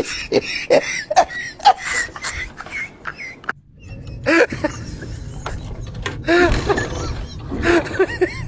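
A quick run of short clicks and knocks, then after a sudden cut, people's voices calling out in short rising and falling cries over a low rumble.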